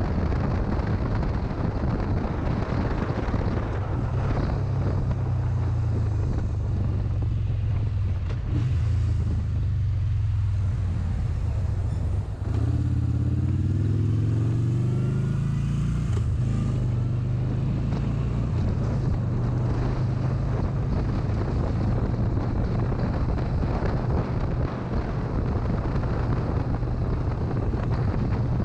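Motorcycle engine running under way, with wind noise on the microphone. About twelve seconds in the engine note dips briefly and then climbs steadily in pitch as the bike accelerates.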